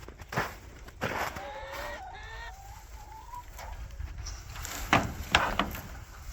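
Chickens calling: a run of wavering, rising-and-falling calls from about a second in until past three seconds. Several sharp rustling knocks come around them, the loudest about five seconds in.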